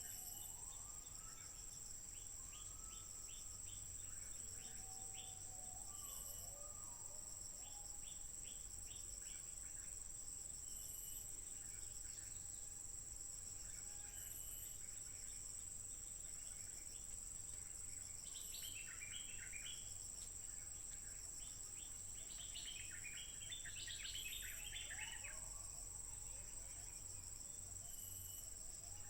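Stripe-throated bulbuls calling: low whistled glides early on give way to bursts of rapid, bubbly chattering notes past the middle and again a few seconds later. A steady high-pitched insect drone runs beneath.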